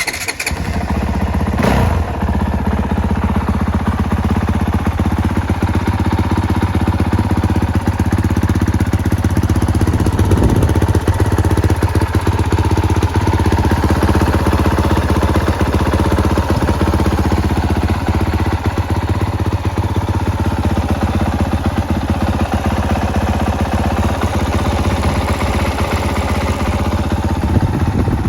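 2021 Honda CRF450R's single-cylinder four-stroke engine fires up and then idles steadily through its exhaust.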